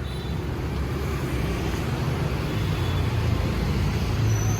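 City street traffic: the steady engine rumble and tyre noise of vehicles passing close by, slowly getting louder, with a brief high-pitched squeak near the end.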